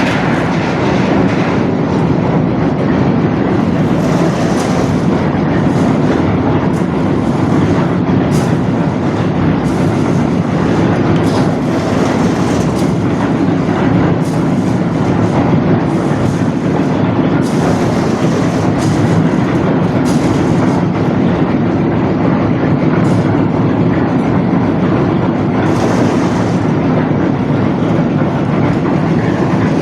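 Heavy construction machinery running steadily and loudly, with a continuous mechanical rattle and no break.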